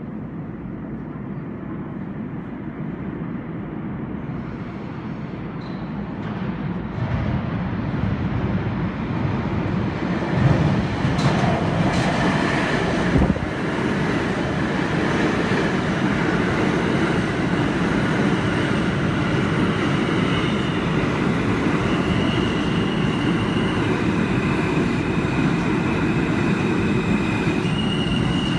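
New York City Subway train of Kawasaki- and Alstom-built R160 cars pulling into a station, its rumble of wheels on rail growing louder over the first ten seconds, with a few sharp clicks. It then runs steadily loud, with high-pitched wheel squeal setting in during the second half.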